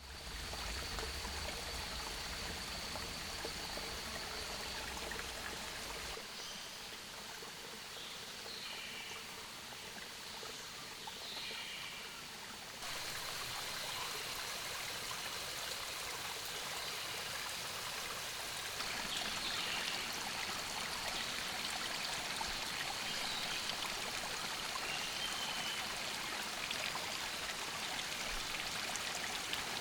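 Steady rushing water noise that changes character abruptly a few times, with a few short high chirps and a thin steady high whine at times.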